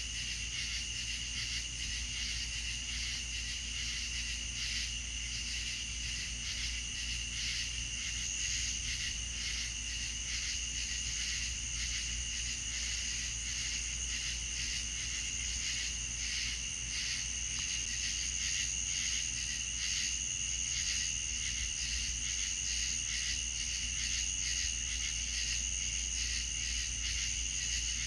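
Chorus of crickets and other insects trilling steadily in high, rapidly pulsing tones, over a low steady rumble.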